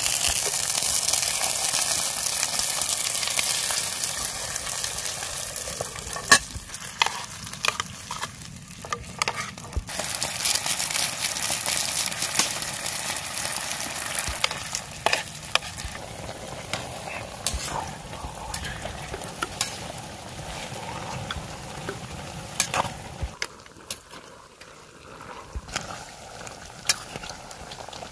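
Sardines in tomato sauce with onions sizzling and frying in a metal mess tin over a portable gas stove, loudest at the start and dying down, with scattered sharp clicks.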